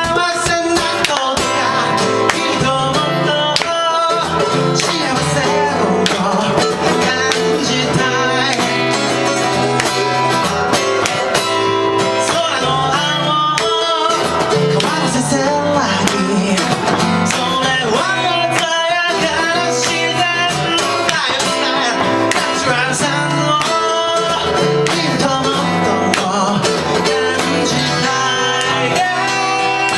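Acoustic guitar played live with a steady strumming rhythm, as part of a song.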